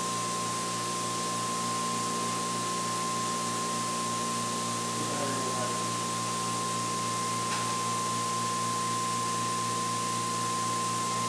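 Generator test rig's electric prime-mover motor spinning the magnet rotor at a steady speed, with a constant high-pitched whine and a low hum.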